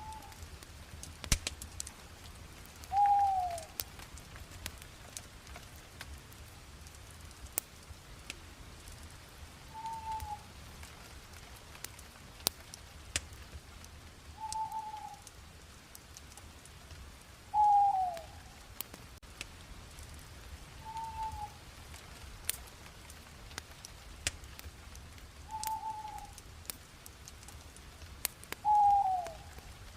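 A bird calling over and over, a short whistled note about every three to four seconds, some of them sliding down in pitch, over a wood fire crackling with scattered sharp pops.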